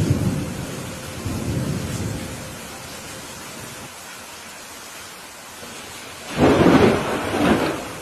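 Thunderstorm: steady rain with thunder. A low rumble fades over the first couple of seconds, then a sudden, loud thunderclap breaks about six seconds in and rumbles on for a second or so.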